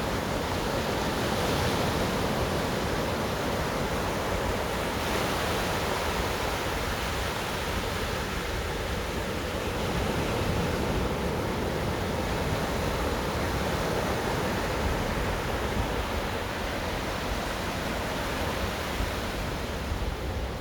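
Ocean surf washing onto the beach: a steady rush of noise that swells and eases gently every few seconds.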